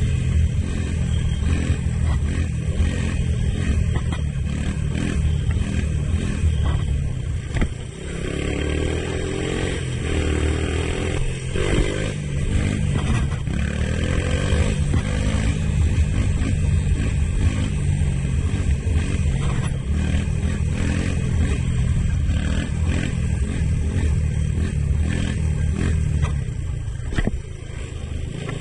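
1983 Honda ATC185s three-wheeler's single-cylinder four-stroke engine running hard while riding, revving up and down with the throttle. The revs drop briefly about eight seconds in and again near the end.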